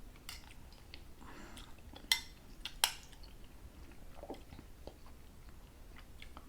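A spoon clicking sharply against its dish a few times, the loudest click near three seconds in, with quiet chewing of soft fruit in between.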